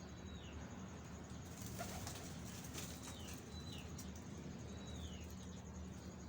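Small birds calling: about four short chirps, each falling in pitch, over a steady low hum.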